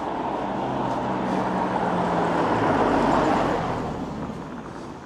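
A motor vehicle passing close by, its engine and tyre noise growing louder to a peak about three seconds in and then fading away.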